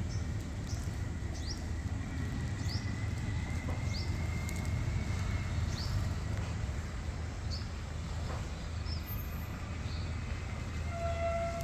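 A small bird giving short, high chirps roughly once a second over a steady low rumble of outdoor background noise.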